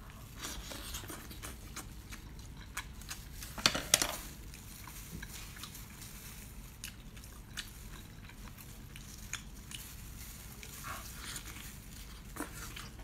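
Close-up eating sounds of a woman biting and chewing octopus tentacles: wet mouth clicks and smacks scattered throughout, with a louder few about four seconds in.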